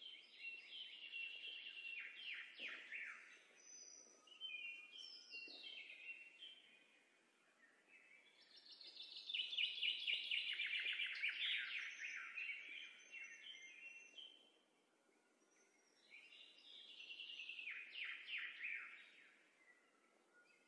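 Songbirds singing: rapid chirps and quick falling trills in three bouts, the middle one the loudest.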